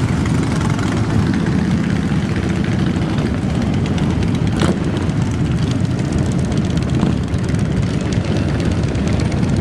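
Steady low rumble of many motorcycle engines across a large rally lot, with a single sharp click about halfway through.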